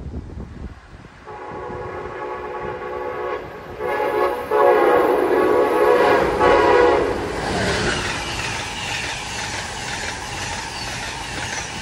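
Amtrak Northeast Regional train sounding its horn on approach, in several blasts with short breaks, the loudest in the middle, then the rushing and rattle of the coaches passing at speed.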